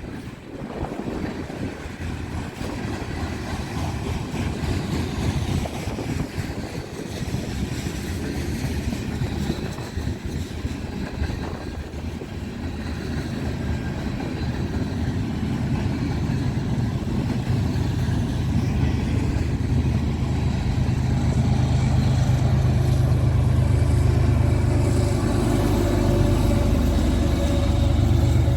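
Heavily loaded Norfolk Southern freight train going by: freight cars rolling over the rails, then the diesel engine of the rear distributed-power locomotive (DPU) drawing near, with a steady low drone that grows louder from about two-thirds of the way through.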